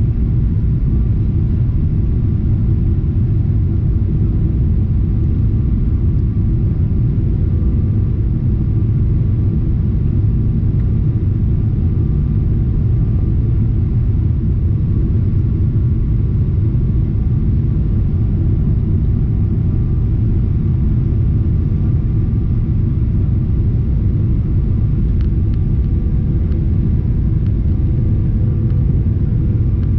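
Steady low rumble of a Boeing 777-300ER's GE90 jet engines and airflow, unchanging throughout, with a few faint steady tones above it.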